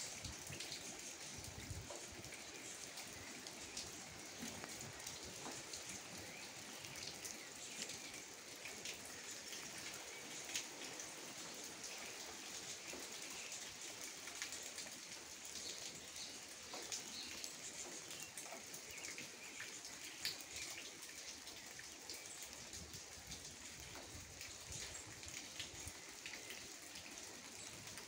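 Gentle steady rain, with many small drips and the odd sharper drop tick.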